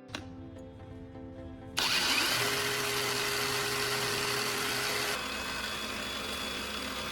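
Angle grinder fitted with a cardboard polishing disc switched on about two seconds in: a short spin-up, then running at speed with a steady whine. The level drops slightly about five seconds in and it keeps running.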